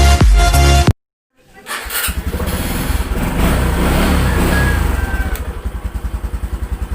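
Electronic dance music cuts off about a second in; after a short gap a motorcycle engine comes in and runs at idle with a steady, even rapid pulse.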